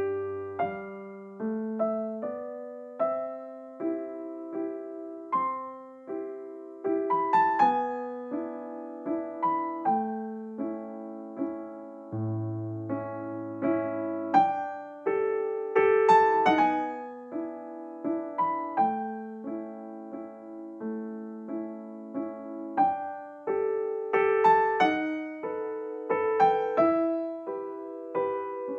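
Background piano music: a gentle melody over soft chords, each note struck and fading.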